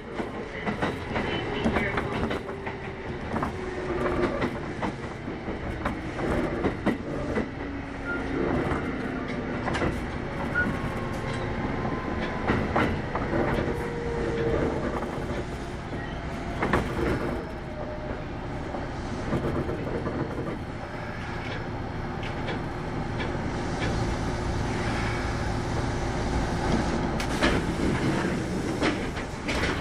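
Kintetsu 8810 series electric train running, heard from inside the car: steady rolling rumble with the clicks of wheels over rail joints. The motor whine falls in pitch over the first several seconds, and the rumble grows louder near the end.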